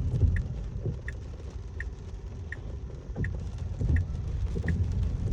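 Tesla Model S Plaid turn signal ticking steadily, a short tick about every 0.7 seconds, over the low rumble of tyres on a wet road inside the cabin.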